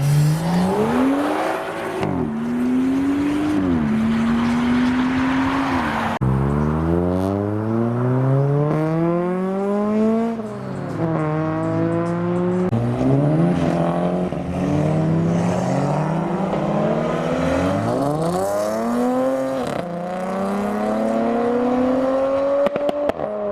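Modified cars' engines revving hard as they accelerate away, the engine note climbing steeply and dropping back at each gear change, again and again.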